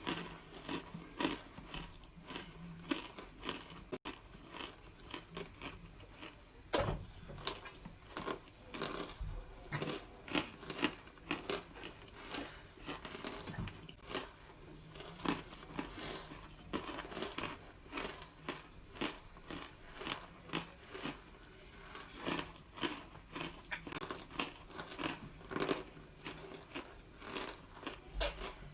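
Biting and chewing microwave-baked cornstarch chunks: a long, irregular run of sharp, dry crunches.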